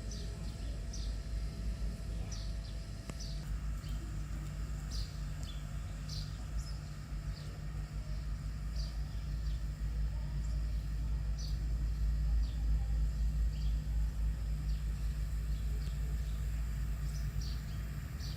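Birds chirping: short, high, falling calls about once a second, over a steady low rumble.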